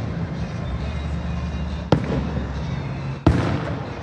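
Fireworks shells bursting: two sharp bangs about a second and a half apart, the first near the middle and the second near the end, over a steady low background rumble.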